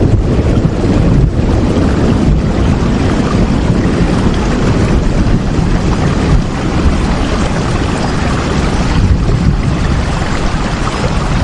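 Steady, dense rush of heavy rain, deep and full in the low end, swelling and easing slightly without a break.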